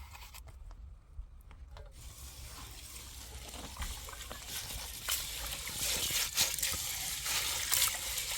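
Water trickling and splashing, quiet at first and growing louder over the last few seconds, with many small clicks and spatters.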